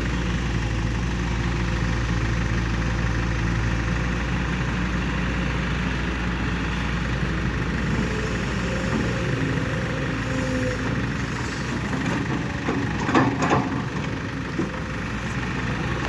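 Heavy diesel machinery running steadily at an excavator loading a dump truck. A few sharp knocks come about 13 seconds in.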